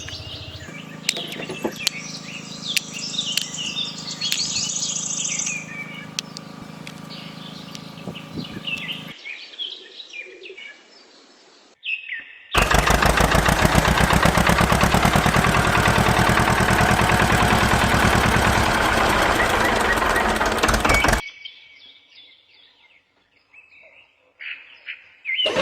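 Birds chirping over a steady low hum. About twelve seconds in, a loud, fast buzzing mechanical noise starts suddenly, runs for about eight seconds, and cuts off abruptly. Faint chirps follow.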